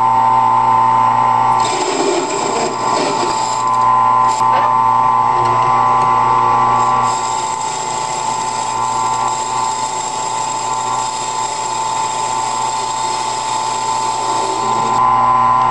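Converted 10x18 wood lathe running with a steady high whine while a tool turns its cast iron faceplate. A hiss from the cut comes in about two seconds in, drops away, and returns from about seven seconds in until shortly before the end.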